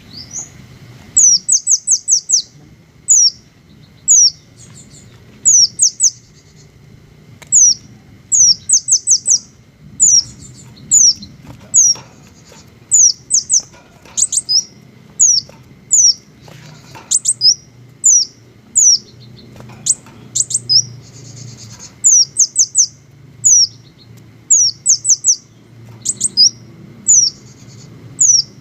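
A small bird, billed as a green hummingbird, repeats sharp, high chirps. Each chirp is a quick downward-sliding note, given singly or in fast runs of two to four, with short pauses between runs.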